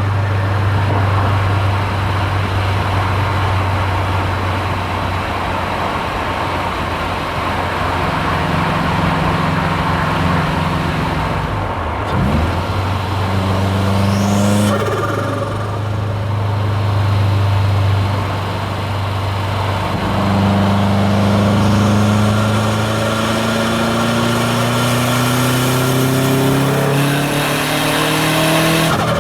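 Hybrid-turbo Subaru WRX STI's turbocharged flat-four engine running as the car is driven. The note dips sharply about twelve and fifteen seconds in, as with gear changes, then climbs steadily under acceleration near the end.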